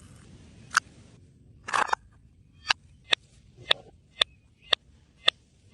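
A series of short, sharp clicks at a steady pace of about two a second, starting a little under halfway through, after a single click and a brief scraping burst.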